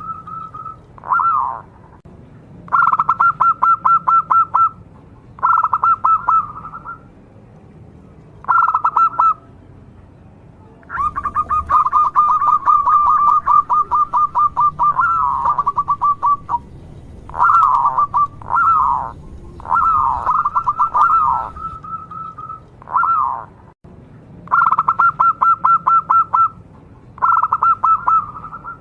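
Zebra dove (perkutut) cooing: about ten phrases of rapid stuttering notes, each one to two seconds long with short pauses between, one longer run in the middle and a few drooping notes.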